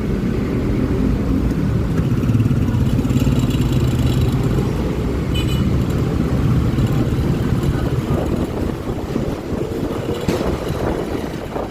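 Honda Click 125i scooter ride through city traffic: steady engine hum with road and wind noise, the engine note easing off about eight seconds in.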